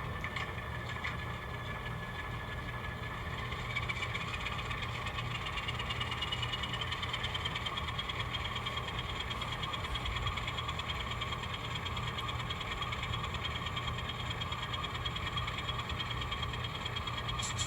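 N scale model locomotive running along the layout's track: a steady hum with a thin whine that rises in pitch a few seconds in as the locomotive speeds up. There is a short click near the end.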